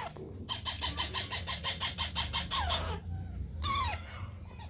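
Green parrot chicks calling: a quick run of short, repeated chirping calls, about six a second, then two longer squawks that fall in pitch near the end.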